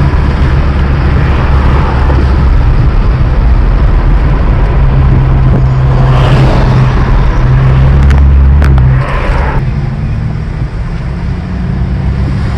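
Exhaust of a 2015 BMW 535i's turbocharged inline-six with the muffler deleted and only the resonator left, heard from the cabin with the windows down while driving. The engine note shifts in pitch, is loudest around eight to nine seconds in, then drops back.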